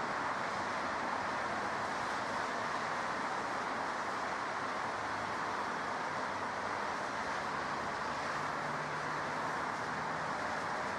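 Steady jet aircraft engine noise, an even rushing sound that holds at one level without rising or falling.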